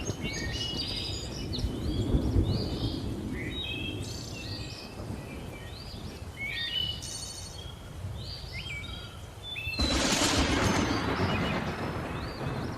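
Many birds chirping in quick, short calls over a low rumble of thunder. About ten seconds in, a sudden loud rush of noise breaks in and then slowly eases.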